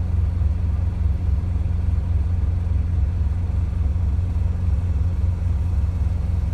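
Semi truck diesel engine idling: a steady low rumble.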